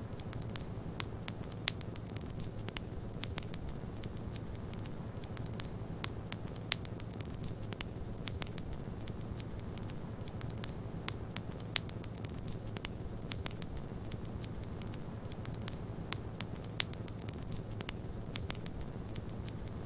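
Wood fire crackling with frequent sharp, irregular pops over a steady low rumble of snowstorm wind.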